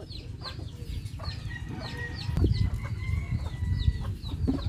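Birds calling in the background: a steady run of short, high, falling chirps, several a second, over a low rumble.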